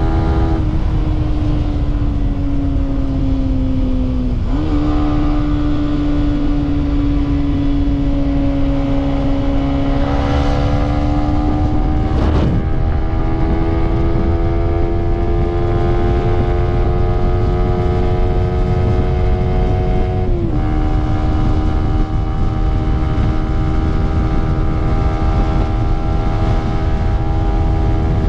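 Small single-cylinder engine of a Yamaha underbone motorcycle at highway speed, heard from the rider's seat with heavy wind noise. Its note sags, jumps up with a downshift to fourth, and climbs steadily as the bike accelerates. It then drops with an upshift to fifth and settles into a steady cruise at about 120 km/h.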